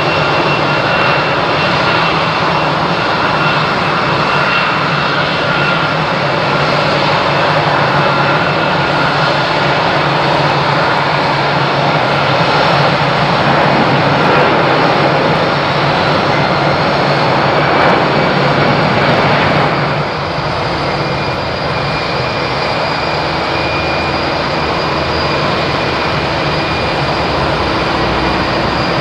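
Jet airliner engines running loud and steady, a dense rush with a high whine on top. About two-thirds of the way through the sound shifts abruptly to a slightly quieter engine tone with a different whine.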